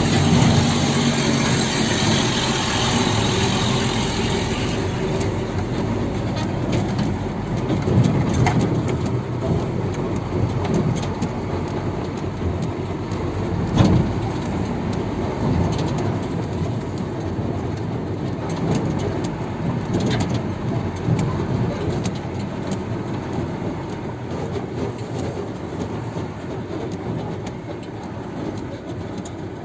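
Heavy diesel machinery running, a steady engine note at first that turns into a rough rumble with occasional knocks and clanks, gradually fading.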